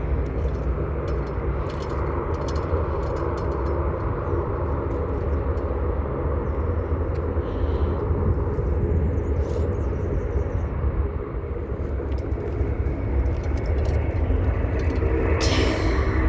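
Jet airliner's engines running during take-off, a steady loud rumble with a brief sharp noise near the end.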